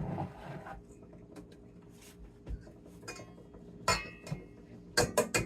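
Kitchen utensils and dishes clinking and knocking: a brief scrape at the start, scattered sharp knocks, one ringing clink about four seconds in, and a quick run of knocks near the end.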